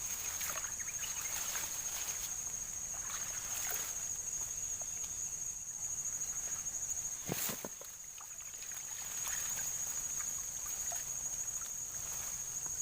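Water trickling and sloshing with scattered small splashes and clicks, over a steady high-pitched drone of insects; one sharper splash or knock about seven seconds in.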